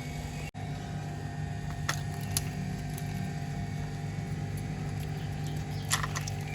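Car engine idling steadily, with a few light clicks or taps over it.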